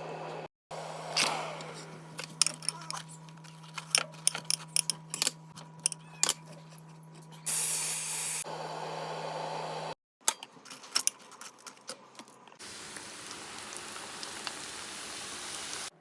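Kitchen sounds in several short cuts: many sharp clicks and knocks, a loud hiss of about a second some seven and a half seconds in, and a steady low hum under the first part.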